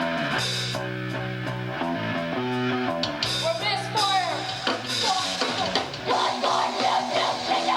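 A rock band playing loud live music: electric guitar over held bass notes and a drum kit with cymbal hits. About halfway through, a high note glides and wavers.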